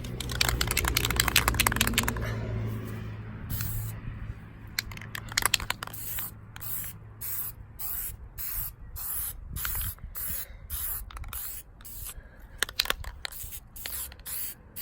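Aerosol spray paint can being sprayed in short hissing bursts, about two a second, putting on a first coat of red paint. A rapid, loud rattling fills the first couple of seconds.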